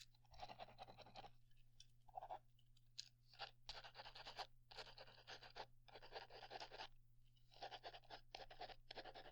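Writing on paper, heard close up: scratchy strokes in short runs of about half a second to a second, with brief pauses between them.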